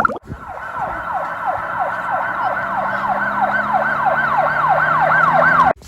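Emergency-vehicle siren in a fast yelp, its pitch sweeping up and down about three times a second. It cuts in just after the start and stops abruptly near the end.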